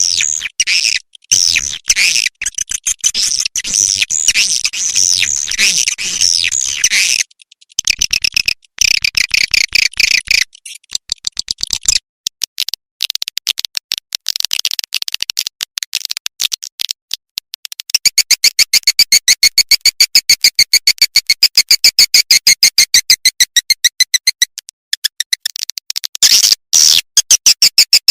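Swiftlet calls from a lure-sound recording: rapid, high-pitched chirping and twittering in loud runs broken by short gaps, turning about two-thirds of the way through into a very fast, even train of chirps.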